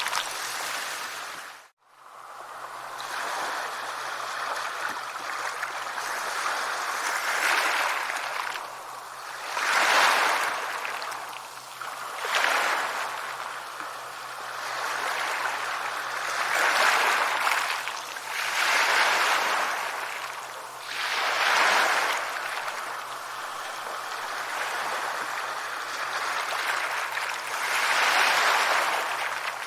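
Sea waves washing onto a shore, the surf swelling and falling back every few seconds. About two seconds in, the sound cuts out for a moment and fades back in.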